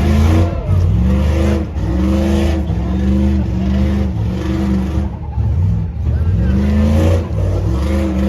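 Truck engines revving again and again, each rev rising, holding and dropping back, over a steady low rumble.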